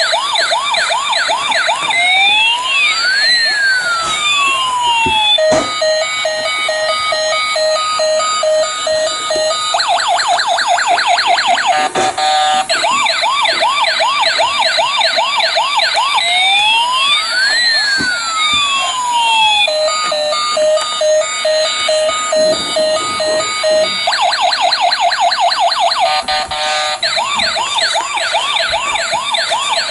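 Toy police car's electronic siren, switched on with its lever, cycling through several patterns: quick yelping sweeps, a slow rising and falling wail, and a stepped pulsing tone, the sequence repeating about every 14 seconds.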